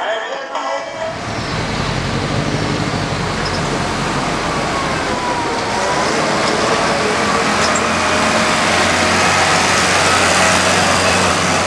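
Engine of a Tokyu Kurogane KW8 three-wheeled truck running as it drives, a steady low engine note that starts about a second in and grows slightly louder.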